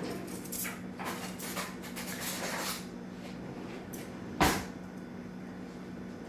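Kitchen items being handled with faint scraping and rustling, then a single sharp knock about four and a half seconds in, like a cupboard door or drawer being shut.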